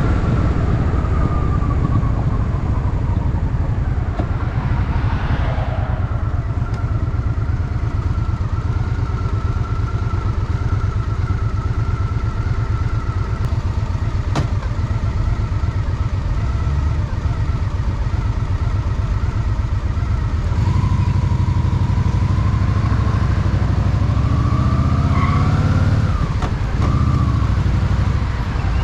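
Honda Shadow VT750 V-twin engine running under way through city streets. The rumble is steady for the first two-thirds, then grows louder with a rising pitch as the bike pulls harder, and dips briefly near the end.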